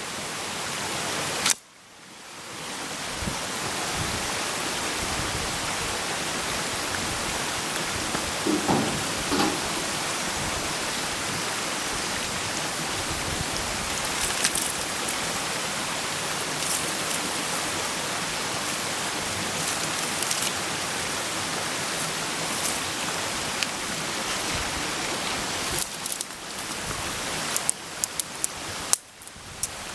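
Campfire burning: a steady hiss with scattered sharp crackles and pops, the pops coming thick near the end.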